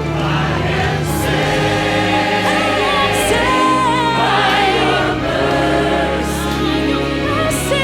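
Gospel-style worship singing: several voices holding long notes with vibrato over sustained bass and chords, with a few light cymbal strokes.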